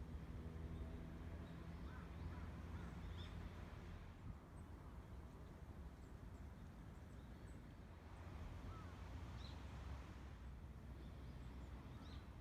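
Faint, scattered short bird calls over a steady low rumble.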